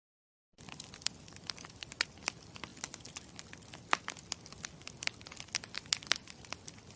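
Campfire crackling: irregular sharp pops and snaps of burning wood over a low steady hiss, starting about half a second in after a moment of dead silence.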